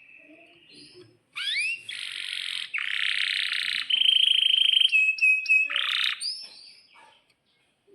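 Domestic canary singing a fast, varied song: a few rising whistled sweeps, then rapid rolling trills and buzzy phrases, a long even trill, and a run of short repeated notes near the end. The song starts about a second and a half in, after a faint thin note.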